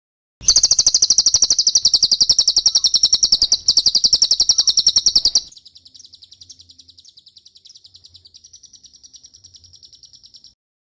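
Cililin bird song used as a training call: a fast, even trill of high chirps, about ten notes a second. It turns much quieter about halfway through and stops shortly before the end.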